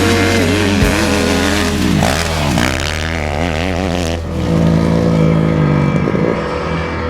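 Motocross motorcycle engines revving, their pitch rising and falling again and again as the bikes accelerate and back off, with background music underneath.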